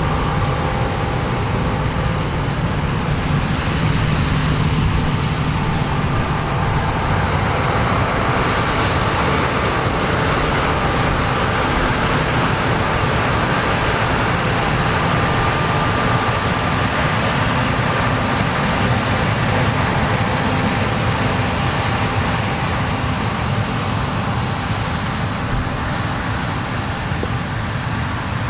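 Combine harvester running steadily while harvesting corn: a loud, continuous engine drone with a faint steady whine above it.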